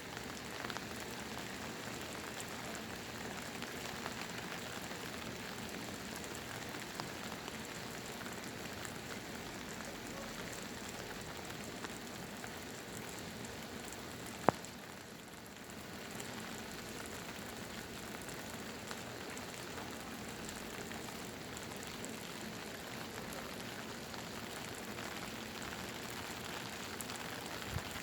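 Steady monsoon rain falling and pattering on surfaces, with one sharp tap about halfway through.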